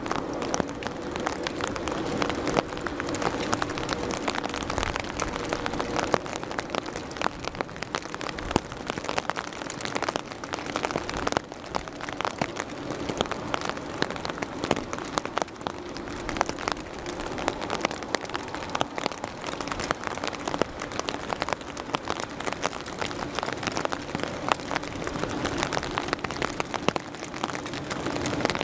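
Rain falling, with a dense patter of individual drops close by and a faint steady hum underneath.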